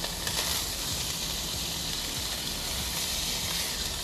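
Sesame-crusted tuna pieces sizzling steadily in hot oil in a stainless frying pan as they sear.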